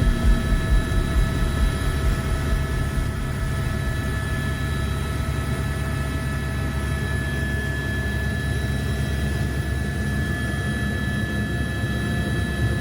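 Helicopter running in flight: a steady engine and rotor noise with a fixed high turbine whine. A rhythmic rotor beat at about four pulses a second fades out within the first couple of seconds.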